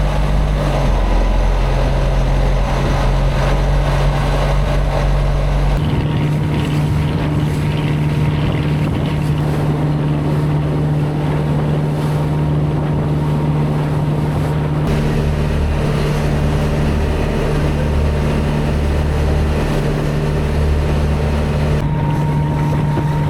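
Motorboat engine running steadily, its note changing about six seconds in and again around fifteen seconds in.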